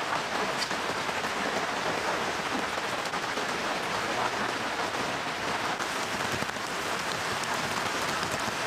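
Steady rain falling, an even hiss of many drops with faint scattered ticks of individual drops.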